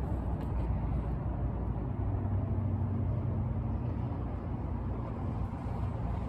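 A vehicle engine running steadily, a low even rumble with no change in speed.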